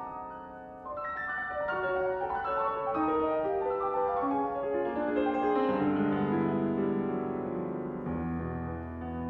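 Solo piano playing a descending run of notes that begins about a second in and settles into low bass notes near the end.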